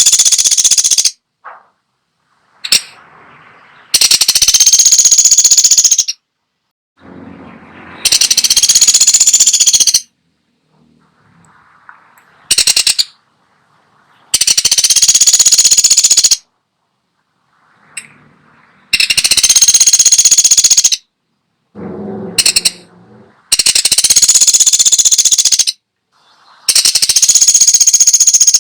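Pelatuk sampit woodpecker giving loud, rapid rattling bursts, each about two seconds long, repeated every four to five seconds, with one short burst partway through.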